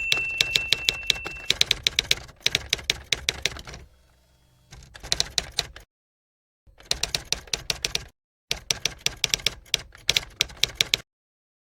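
Typewriter sound effect: runs of rapid key clacks broken by short pauses, with a bell ding ringing out at the start. The clacking stops abruptly near the end.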